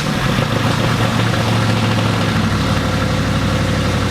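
Twin-turbo Dodge Scat Pack's 6.4-litre Hemi V8 idling just after start-up, settling into a steadier idle about two seconds in.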